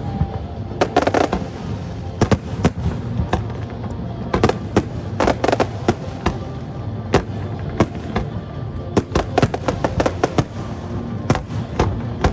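Aerial fireworks bursting in irregular volleys, at times several sharp bangs a second.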